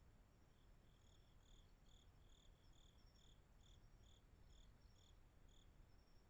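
Faint night insects: a cricket chirping in an even rhythm of a little over two chirps a second, starting about half a second in and stopping near the end, with a fainter second insect trilling intermittently over low background noise.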